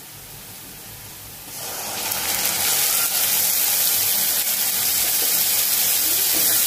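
Onions frying gently in oil in a kadhai, then about a second and a half in a wet spice paste goes into the hot oil and the pan breaks into a loud, steady sizzle.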